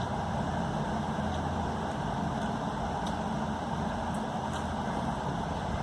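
Steady low background hum with a few faint clicks scattered through it.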